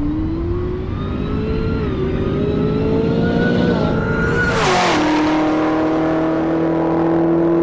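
Supercharged V8 of a Chevrolet Camaro ZL1 accelerating. Its pitch climbs with two brief dips, then about four and a half seconds in a rushing burst comes as the pitch drops and holds steady.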